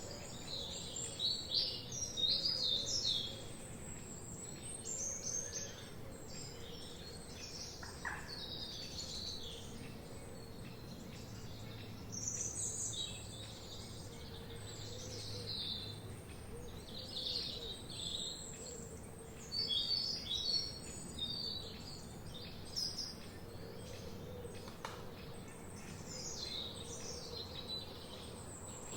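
Several forest songbirds singing and chirping, with short high chirps and trills overlapping throughout and busier bursts every several seconds.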